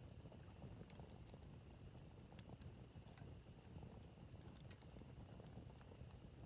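Campfire crackling faintly, with sparse, irregular sharp pops over a low rumble.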